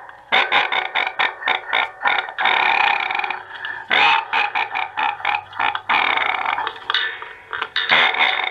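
A voice coming out of the Snake Mountain playset's toy microphone and small speaker, distorted by the toy's voice-changing effect: choppy and tinny, with hardly any low end. The microphone circuit is working again after repair.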